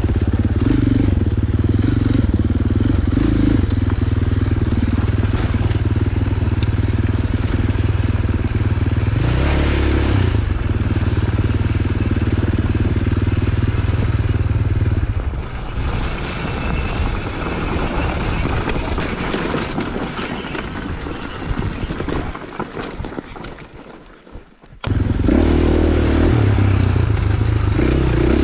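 Dirt bike engine running steadily for about fifteen seconds, then quieter with rattles for several seconds, dropping out briefly and coming back loud near the end.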